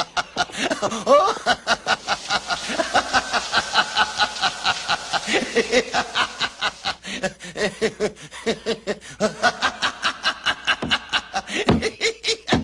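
Laughter: a long run of quick 'ha' pulses, about five a second, broken briefly about halfway and again near the end.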